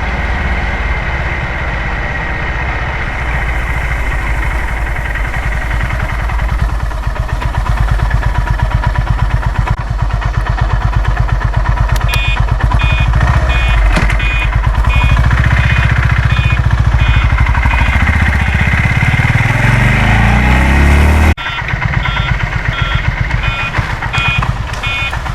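Honda CB350's single-cylinder engine running under way, pulling harder with its pitch climbing, then dropping off abruptly near the end. A steady electronic beeping, a few beeps a second, starts about halfway through and carries on after the drop.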